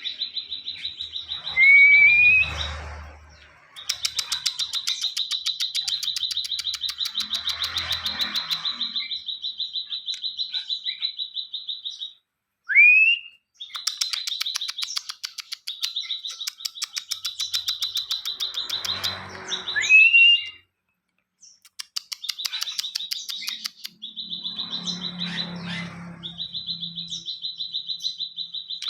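Ciwah songbird singing: long, fast trills held at one high pitch for several seconds at a time, broken by short rising whistled notes that are the loudest sounds.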